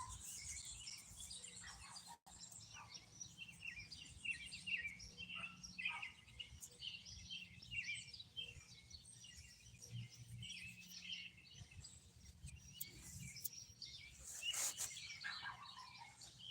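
Many small birds chirping and twittering: short, overlapping high calls throughout. A brief louder noise near the end.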